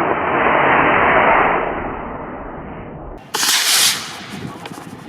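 Model rocket motor firing at liftoff, a loud steady rushing noise that fades as the rocket climbs away. About three seconds in it cuts off abruptly and a different, brief loud hiss follows.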